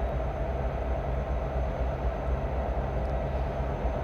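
Diesel freight train rumbling steadily, a continuous low drone of locomotive engines.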